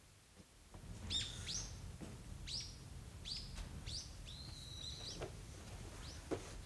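Birds chirping: a string of short, high, downward-sweeping chirps starting about a second in, with a longer held whistle midway, over a faint low hum.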